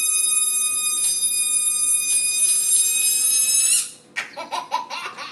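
Air rushing out of a toy balloon helicopter in flight, making a loud, steady high-pitched whistle that rises slightly and cuts off about four seconds in as the balloon empties. A child then laughs and squeals excitedly.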